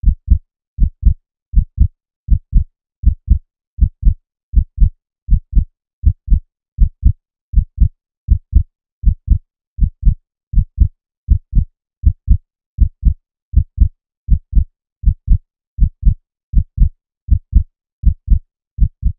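Heartbeat: steady lub-dub double thumps, low in pitch, at about 80 beats a minute, with near silence between beats.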